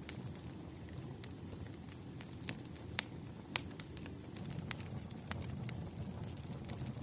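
Wood fire crackling: irregular sharp pops and snaps over a low, steady rumble, with the two loudest snaps about halfway through.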